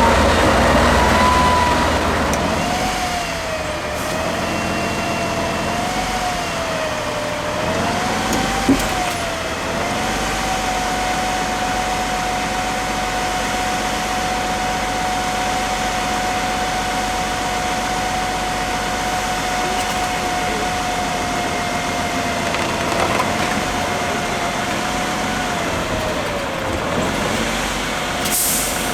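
Off-road trial truck's diesel engine running, its whine wavering up and down in pitch, then holding steady for a long stretch before falling near the end.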